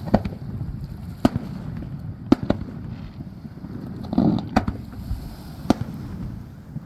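Fireworks shells exploding: about nine sharp bangs at irregular intervals, some in quick pairs, over a low background rumble.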